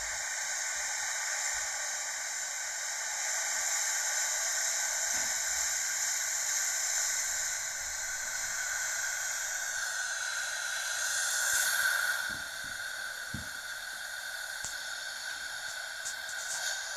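Washtec automatic car wash running with a steady hiss of its jets. The hiss swells about twelve seconds in, then drops to a lower, steady level.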